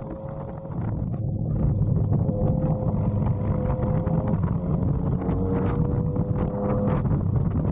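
Motorcycle engine and exhaust while riding, with wind noise on the microphone; it gets louder about a second and a half in and then holds steady.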